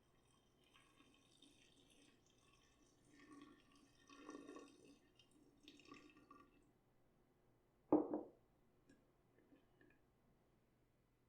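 Wet, salted shredded cabbage being handled, giving about six seconds of crinkly, squishing rustles. About eight seconds in comes a single sharp knock, the loudest sound.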